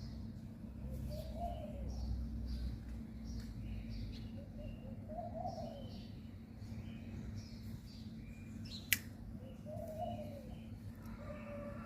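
Birds calling: short high chirps throughout, and a low cooing call that comes about every four seconds. A steady low hum runs underneath, and there is one sharp click about nine seconds in.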